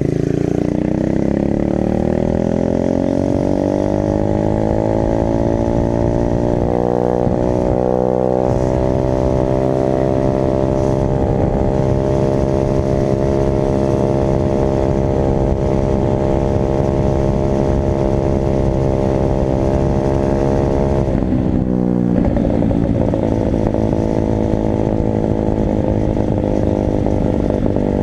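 Dirt bike engine accelerating, its pitch climbing over the first several seconds, then held steady at high revs. About 21 seconds in the revs drop sharply, then hold steady again.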